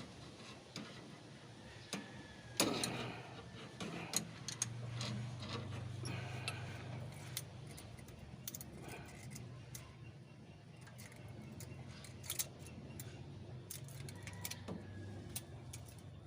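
Scattered metallic clinks and taps of hand tools and loose engine parts being handled during work on a 4BA1 diesel engine's valve gear, with a louder clatter about two and a half seconds in and a low hum in the middle.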